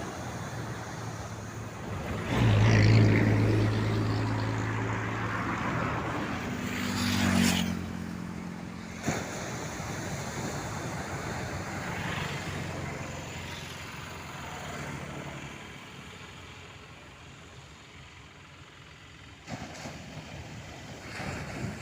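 An engine running, starting loud about two seconds in; its pitch rises briefly partway through before it drops away into a steady noisy background.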